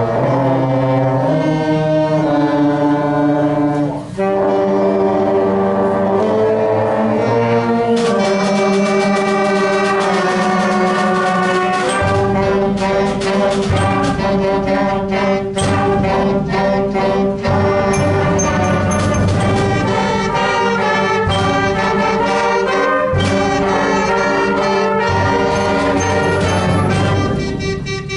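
A school band playing. It opens on held brass chords, then drums and cymbals come in about eight seconds in, and a heavy low bass line joins from about twelve seconds.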